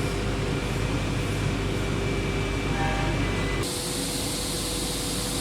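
Steady machine noise, a dense hum with faint steady tones, changing character abruptly about three and a half seconds in.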